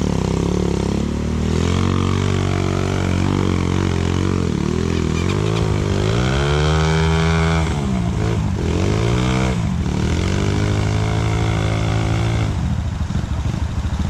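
Motorcycle engine revving up and down repeatedly, climbing highest about six seconds in, then dropping back to a low, rough idle near the end.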